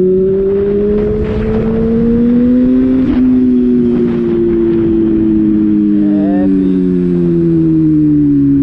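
Motorcycle engine under way, its revs climbing, dropping at a gear change about three seconds in, then slowly easing off.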